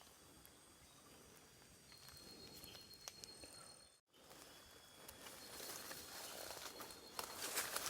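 Faint rural outdoor ambience with a thin, steady high-pitched tone running through it. Soft footsteps and rustling grow louder near the end, and the sound drops out completely for a moment about four seconds in.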